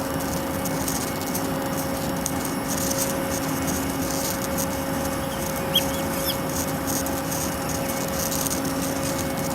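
Steady drone of aircraft engines under a loud rushing noise, with a constant low hum that holds one pitch throughout. A few faint high chirps come about five to six seconds in.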